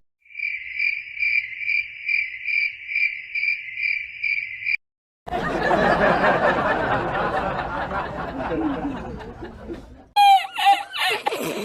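Cricket-like chirping, a steady high pulsing tone of about two to three pulses a second, stops after about four and a half seconds. After a short gap comes a dense burst of noise that slowly fades, and someone starts laughing near the end.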